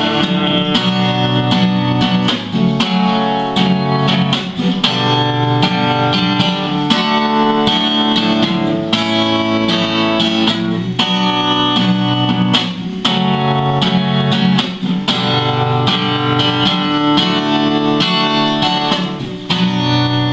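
Guitar playing a strummed and plucked instrumental outro of a sertanejo song, with no singing.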